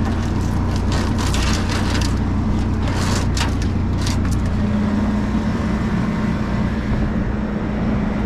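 Vehicle engine idling steadily, with light clinks and knocks from scrap metal being handled during the first four seconds or so.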